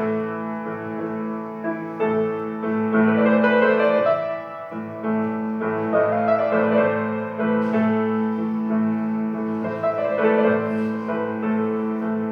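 Solo bayan (button accordion) playing a Ukrainian shumka dance piece: melody notes over a low bass note that is held without fading, with a short lull about four and a half seconds in.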